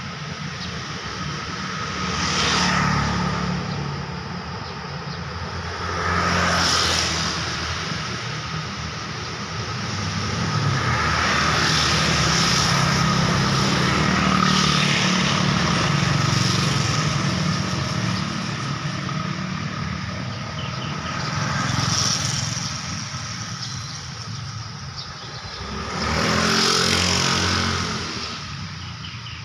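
Road traffic with vehicles passing one after another. Single pass-bys swell and fade about two, seven, twenty-two and twenty-seven seconds in, with a longer stretch of continuous traffic from about ten to seventeen seconds, over a steady traffic hum.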